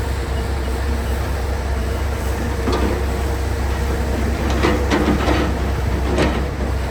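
Logging truck running down the road: a steady low engine and road drone, with a few short knocks or rattles about three, five and six seconds in.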